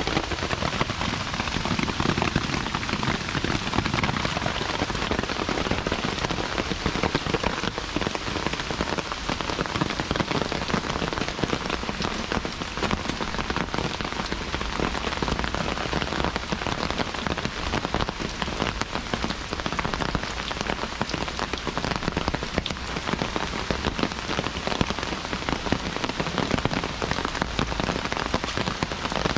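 Heavy rain falling steadily, with a dense, even patter of close drop hits.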